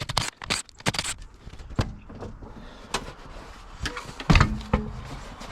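A quick run of sharp clicks and clanks, a few scattered knocks, then one heavy thump about four seconds in: a wheel and tools being handled on a jacked-up car during a wheel swap.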